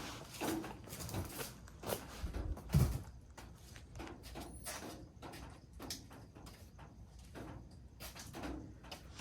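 Scattered knocks and clunks of things being handled and set down, with one heavier thump about three seconds in.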